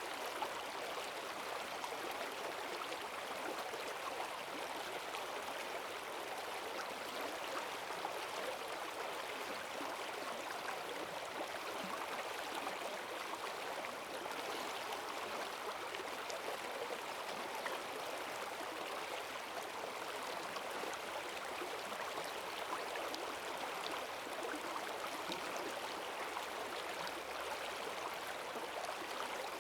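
Forest stream running high after heavy rain, its strong current rushing over the bed in a steady, even wash.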